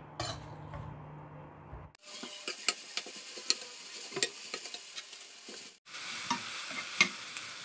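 Sliced onions, tomatoes and curry leaves sizzling in oil in a kadai, frying toward light brown, while a steel ladle stirs them with frequent sharp clicks and scrapes against the pan. The sizzle comes in about two seconds in and grows louder near six seconds.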